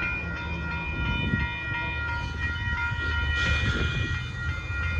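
Amtrak Texas Eagle passenger train rolling past with a steady low rumble, while a grade-crossing warning bell rings throughout in a fast repeating pattern.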